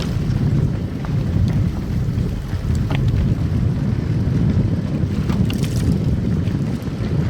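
Car driving on a snow-covered road: a steady low rumble of tyre and road noise, with a few faint ticks and clicks scattered through it.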